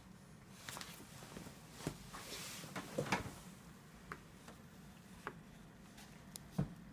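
Scattered clicks and knocks as a baby handles a humidifier and presses its on/off switch, over a low steady hum, with a brief rush of noise about two to three seconds in.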